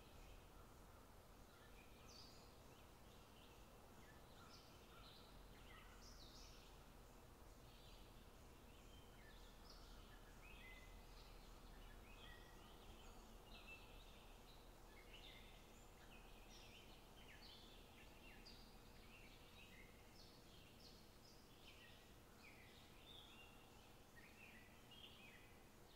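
Near silence: a faint low hum, with faint bird chirping, many short calls scattered throughout.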